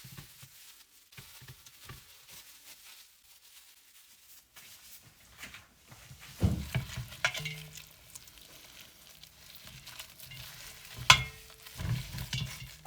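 Food-handling sounds at the cooking area: soft moist rustling for the first half, then a few low knocks and clicks, and one sharp clack about eleven seconds in.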